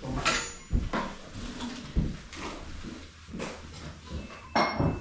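Irregular knocks and clatter, five or so sharp strikes spread unevenly through the few seconds, over a low background rumble.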